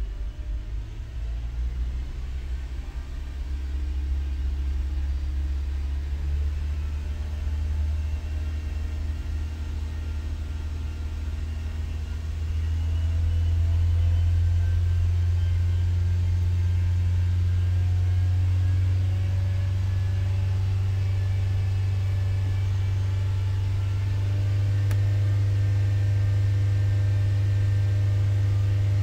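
A 2012 Honda Accord's four-cylinder engine running normally, held at raised speed and stepped up twice: from about 1,200 rpm to about 2,300 rpm roughly twelve seconds in, then to about 3,000 rpm about two-thirds of the way through. It is a steady hum that rises in pitch and loudness with each step.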